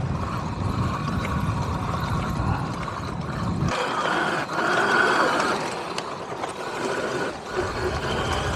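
Electric dirt bike riding along a trail: a steady rush of wind and tyre noise. About three and a half seconds in, the low rumble drops away and a higher hiss takes over.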